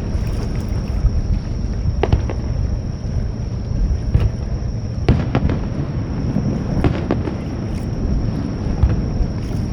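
Fireworks shells bursting over a continuous low rumble: several sharp bangs about a second or two apart, some in quick pairs.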